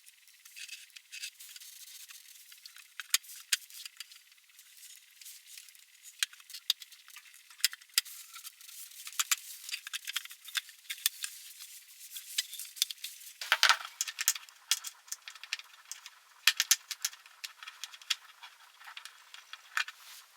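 Hand tools and small metal parts clinking and rattling in irregular, sharp clicks, with a louder cluster of clatter about two-thirds of the way through.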